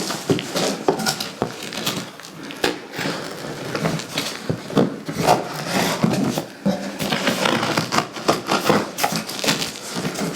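Cardboard box and packing material being handled and pulled open: irregular rustling and scraping with scattered light knocks.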